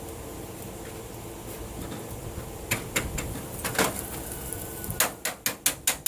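A few separate knocks, then from about five seconds in a quick, even run of sharp metallic clicks, about five a second.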